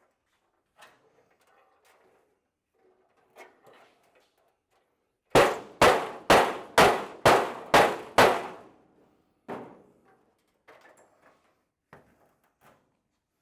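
Seven loud hammer blows on a Model A's steel trunk lid, about two a second, each ringing briefly, as the lid is beaten to add curve to match the quarter panels. Quieter knocks and handling of the panel come before and after.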